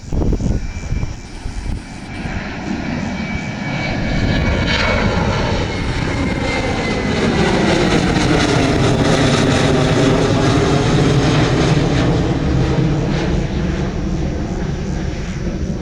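Jet airliner passing close at low altitude, its engines running loud and steady, with a high engine whine that falls slowly in pitch as it goes by.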